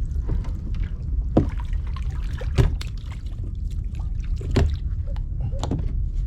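Wind rumbling on the microphone and water moving around a fishing kayak, with several sharp knocks of gear being handled on board.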